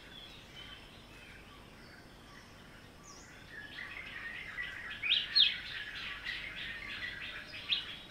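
Birds chirping and singing over a faint background, louder after about four seconds, with a few sharp rising notes in the second half.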